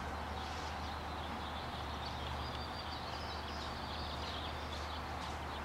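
Steady ambient background noise with a low hum and faint, wavering high-pitched chirping.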